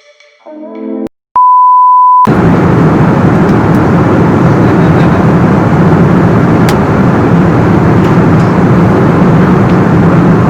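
Music ends, then a single steady electronic beep lasting under a second. Right after it a loud, steady rumbling noise of a moving vehicle starts suddenly and runs on without change.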